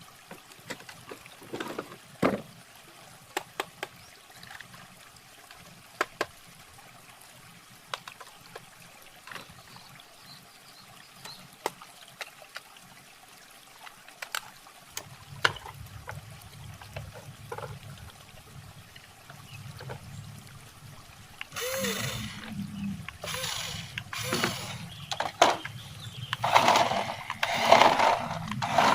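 Scattered clicks and taps of a toy RC drift car being handled, then a low hum sets in about halfway through. From about two-thirds of the way in come louder, rising and falling surges of the car's motor and wheels running on a hard floor, growing toward the end.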